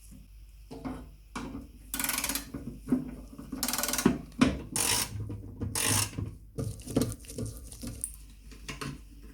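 Hand work on old lamp parts: irregular knocks, clicks and clatter, broken by several short scraping or rustling strokes.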